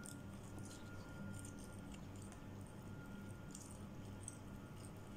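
Chewing a mouthful of breaded fried chicken fillet: scattered small, wet mouth clicks and squishes, over a faint steady hum.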